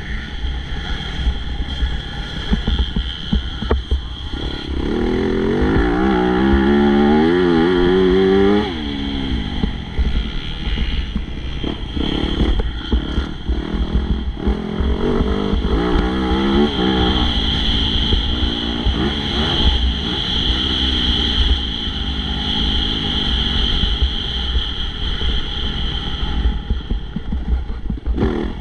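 Motocross bike engine racing, revving up and down as the rider works the throttle through the gears. It is loudest from about five to nine seconds in and again around fifteen to seventeen seconds, over a constant low rumble.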